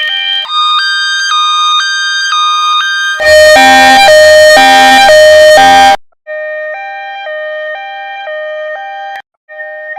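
Two-tone emergency vehicle siren alternating between a high and a low note about twice a second. It plays as a series of different versions cut one after another, at changing pitch. The loudest, harshest version runs from about 3 to 6 seconds in, with brief breaks near 6 and 9 seconds.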